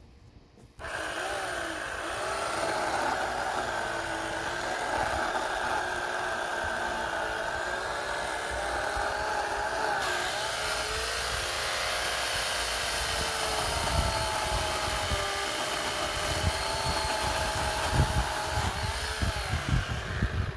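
Corded electric chainsaw switched on about a second in, its motor and chain running with a steady whine whose pitch dips and rises as the worn, slightly dull chain works under load. A few low thumps come in near the end.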